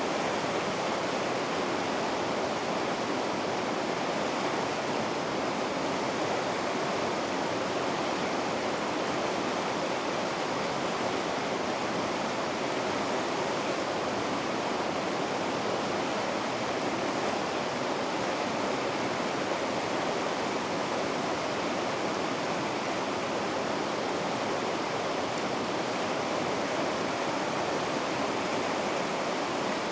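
Rapids on a river rushing steadily, an even, full white-water roar with no changes.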